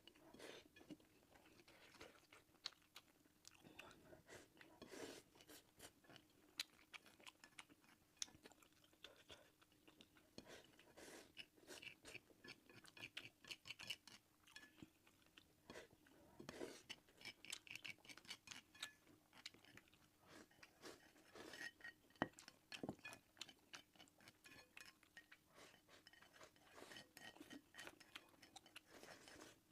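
Quiet close-up chewing and mouth sounds of a person eating egg fried rice with spicy pork sausage: a steady stream of small wet clicks and crunches. A faint steady hum runs underneath.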